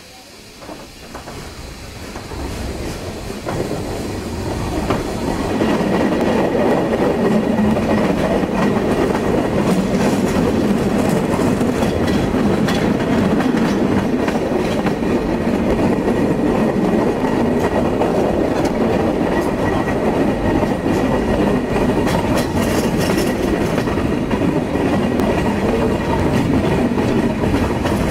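Narrow-gauge passenger train running, heard from a carriage window: wheels clattering over the rail joints. It grows louder over the first six seconds or so, then holds steady.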